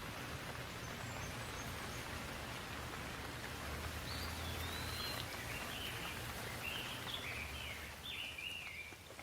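Steady rainfall, an even hiss. In the second half a bird calls in a run of short chirps over the rain.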